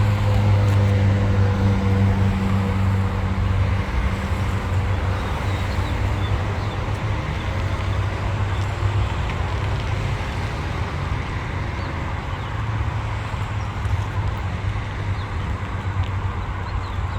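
Diesel freight locomotive engine running, a steady low drone that eases off a few seconds in, over a continuous rumble.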